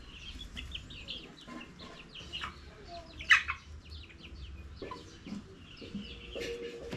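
Chickens clucking, with many short high chirps throughout. About three seconds in there is one short, much louder sound.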